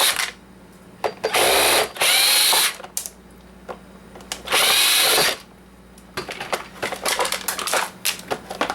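Cordless drill/driver run in short bursts, whirring up and down as it backs screws out of a coffee maker's plastic housing, then clicking and rattling of plastic parts and screws being handled.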